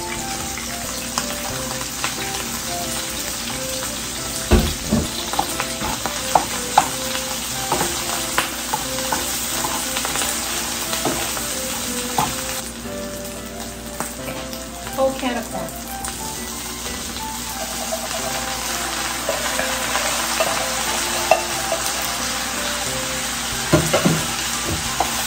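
Rice sizzling steadily as it fries in a hot skillet, stirred with a wooden spatula that knocks and scrapes against the pan now and then.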